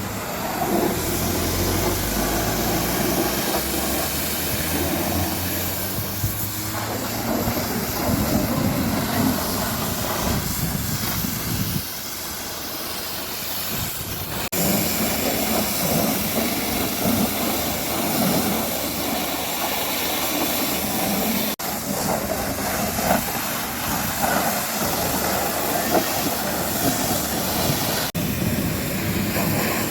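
High-pressure water spray hissing steadily as a truck is washed down, breaking off sharply a few times.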